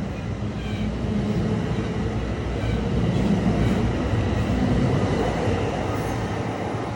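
MARC commuter train running through the station: a steady rail rumble that grows louder toward the middle and then eases off a little.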